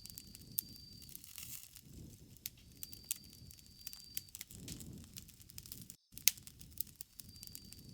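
Campfire crackling, with sharp pops over a low uneven rush of burning wood. A thin high insect trill comes and goes in stretches of a second or so.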